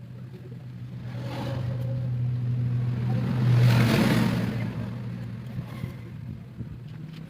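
A motor vehicle passes by, its engine and road noise building to a peak about halfway through and then fading, over a steady low hum.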